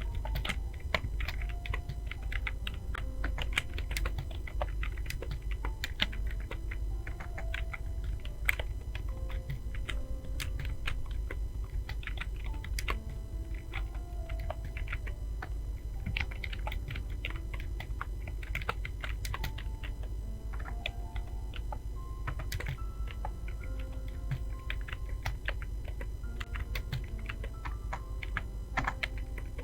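Fast, continuous typing on a computer keyboard, with dense irregular key clicks, over faint background music with short held notes.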